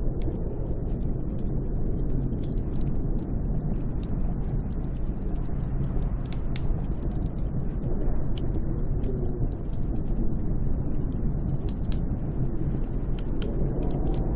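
Snowstorm wind blowing steadily with a deep rumble, with many small sharp crackles scattered irregularly through it.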